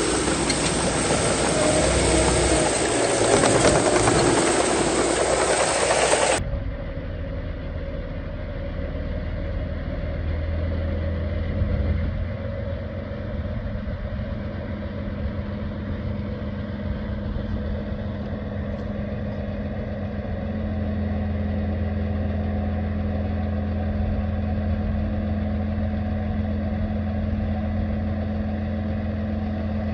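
Heavy diesel engine of earthmoving machinery running. For the first six seconds a loud hissing noise lies over it, then cuts off abruptly, leaving a steady engine drone with a low hum that grows a little louder about two-thirds of the way through.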